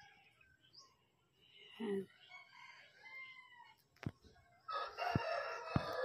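A long, harsh bird call near the end, lasting about a second and a half, with a shorter call about two seconds in and a few sharp knocks.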